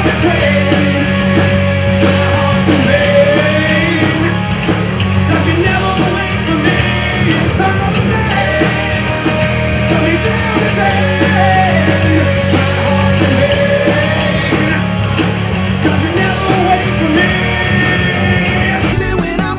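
Loud rock music with a singing voice over a full band, changing abruptly near the end.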